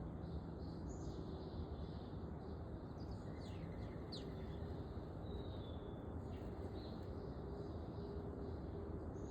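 Songbirds chirping faintly, with short notes repeating about twice a second and a burst of quick chirps around three to four seconds in, over a steady low rumble of background noise.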